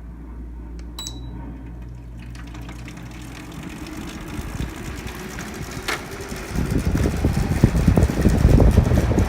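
Haier 5,000 BTU window air conditioner switched on, fan only with the compressor not yet running: a short electronic beep about a second in, then the fan spins up and grows louder. A click comes near six seconds, after which the blowing air buffets the microphone with a rough, gusting rumble.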